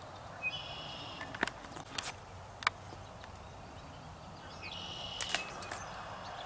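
Two short, high bird calls about four seconds apart over open-air background, with a few sharp clicks or taps in between.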